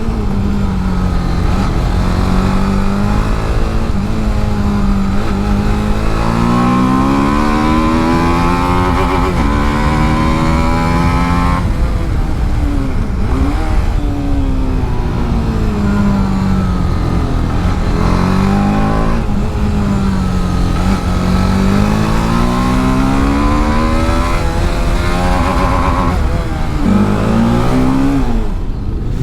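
TVS Apache RR310's single-cylinder engine and exhaust at racing speed. The engine pitch climbs and falls over and over as it accelerates and slows, with a sharp drop near the end.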